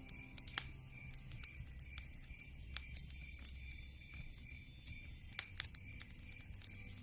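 Campfire crackling, with scattered sharp pops, over a steady high chirping of night insects.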